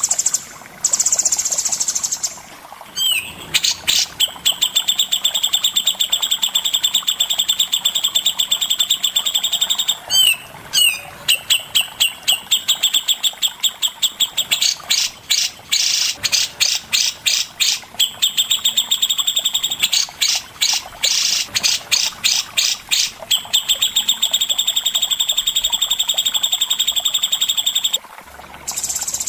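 A songbird singing long runs of rapid, trilled notes, broken in the middle by slower series of sharp repeated notes, about two to three a second. A steady high whir is heard at the very start and again near the end.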